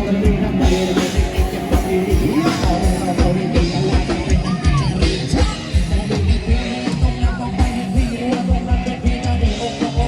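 Loud live band music from a Thai procession sound truck, with a steady heavy drum beat and singing.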